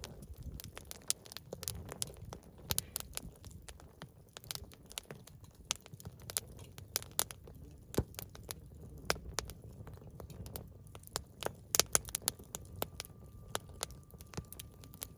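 Campfire wood crackling: irregular sharp snaps and pops, several a second, over a low steady rumble of the burning fire.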